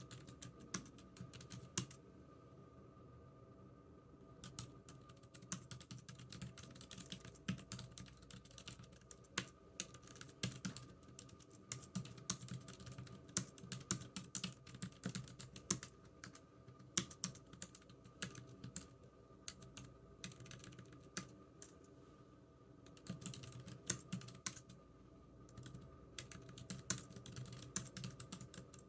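Typing on a computer keyboard: irregular runs of key clicks with short pauses between bursts, over a faint steady hum.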